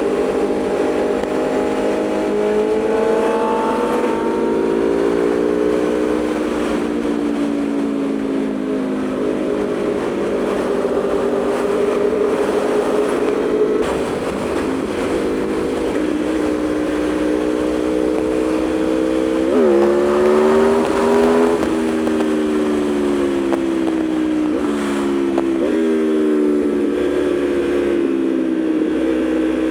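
Aprilia Tuono V4's V4 engine running under way, its pitch wandering with the throttle and jumping sharply up then easing off twice, about 20 s and 26 s in. There is steady wind rush over the rider's mic.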